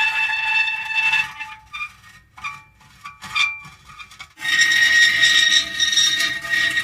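Metal creaking: a long, drawn-out, pitched squeal fades after about a second, then gives way to a few short, broken creaks in a quieter stretch, and a second long squeal starts suddenly about four and a half seconds in.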